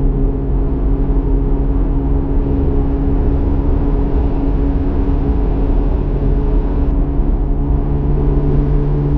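Chevrolet Corvette C8 Z06's flat-plane-crank V8 exhaust at a steady, nearly constant engine speed while driving. There is a slight dip in pitch at the start and a deeper tone coming up near the end.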